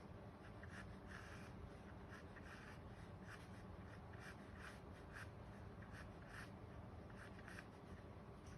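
A Chinese painting brush stroking across rice paper: a series of short, soft brushing strokes, one after another, over a faint steady room hum.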